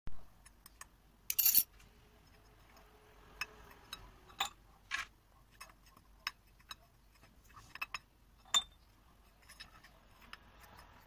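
Scattered sharp clicks and taps at irregular intervals, with a short, louder rattling burst about a second and a half in.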